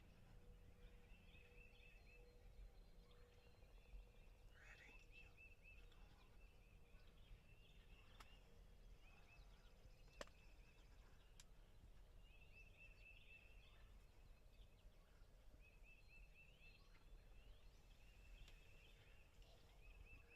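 Faint, quiet woodland ambience with birds calling: short trills repeated every few seconds, and a few quick chirps. A single sharp click sounds about ten seconds in.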